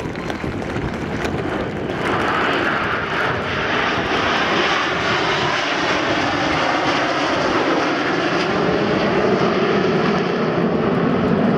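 Aermacchi MB-339 PAN jet trainers of the Frecce Tricolori flying past in formation, their turbojet engines' noise swelling about two seconds in and staying loud and steady.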